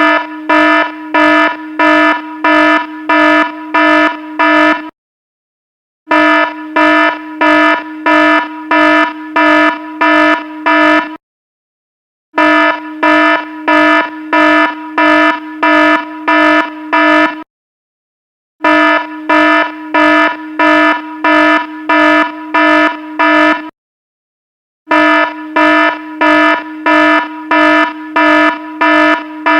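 Alarm sounding in a buzzy, beeping pattern: about two beeps a second in runs of about five seconds, each run broken by a pause of about a second.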